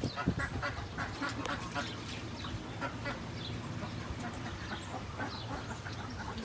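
Ducks and geese calling together: many short, overlapping calls.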